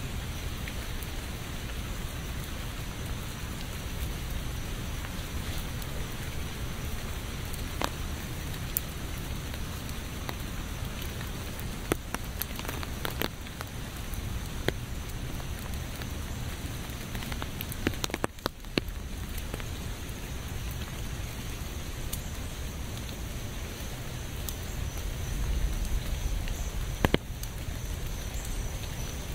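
Steady rain falling, an even hiss with scattered individual drops striking close by. The sound briefly dips about eighteen seconds in.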